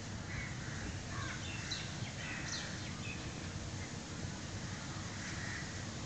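Birds calling: a cluster of short, rising and falling calls about one to three seconds in, with a few softer calls near the start and end, over a steady low outdoor rumble.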